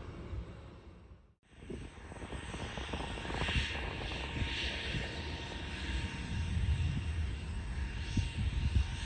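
Jet airliner engines rumbling steadily as a plane passes, with gusty buffeting in the low end. A brief dropout about a second and a half in, where the recording cuts.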